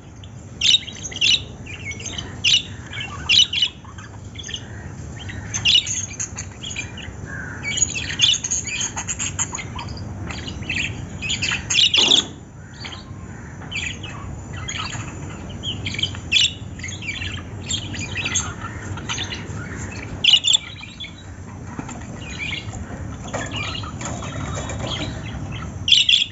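Small pet parrots chirping and squawking: many short, sharp, high calls in irregular clusters, with a few louder squawks, over a steady low background noise.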